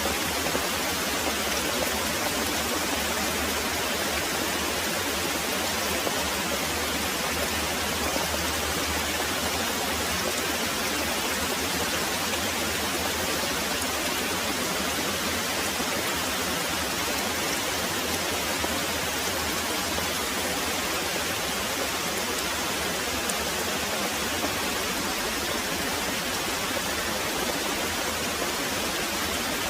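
Very heavy rain pouring steadily, a dense, even hiss of rainfall that does not change.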